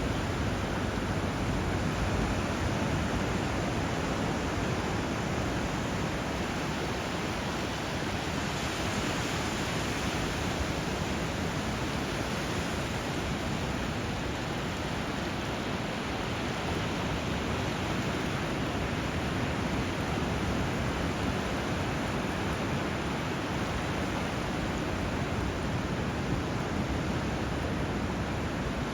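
Steady rush of flowing water where a river meets the sea: an even, unbroken hiss with no separate wave crashes or bird calls standing out.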